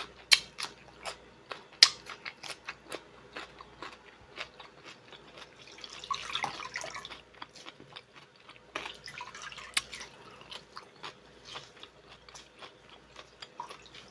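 Close-miked crunchy chewing of cucumber, sharp crunches about twice a second for the first few seconds, then softer, wetter chewing.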